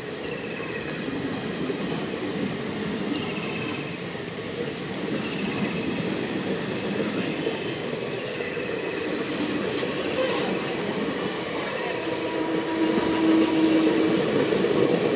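Passenger train coaches rolling slowly along a platform, a steady rumble of wheels on rail with a few faint, brief wheel squeals; it grows a little louder near the end.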